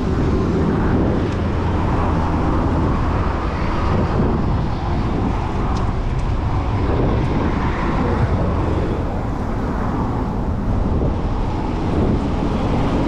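Steady wind on the microphone of a moving bicycle, over the noise of city road traffic.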